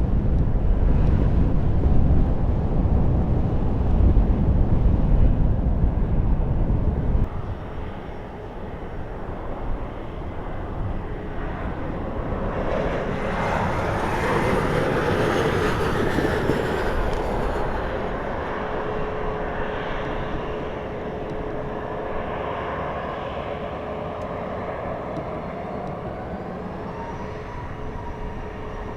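Wind buffets the microphone with a heavy rumble that stops abruptly about seven seconds in. A jet aircraft's engines then swell and fade as it passes, leaving a steady engine whine whose pitch rises near the end.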